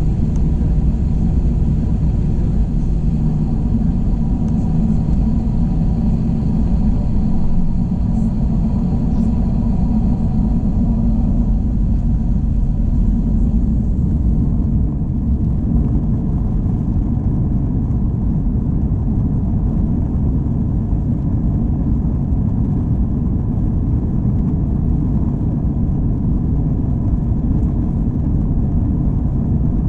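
Steady low rumble of an Airbus A321 in flight, engine and airflow noise heard inside the cabin. About halfway through, the higher hiss drops away and the low rumble carries on.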